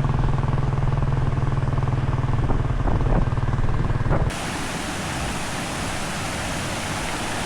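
A vehicle engine running steadily with a low hum. About four seconds in it cuts off suddenly, giving way to the steady rush of a waterfall.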